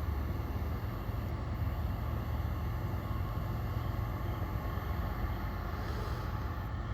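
Diesel locomotives of a long freight train running with a steady low rumble as the train slows, with wind buffeting the microphone.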